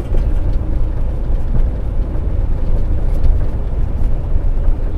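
Steady low rumble of a semi truck's diesel engine and drivetrain, heard from inside the day cab.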